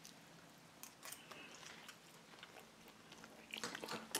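A person chewing a mouthful of grilled grouper, faint and soft, with a fork clicking and scraping against the plate near the end as another piece is broken off.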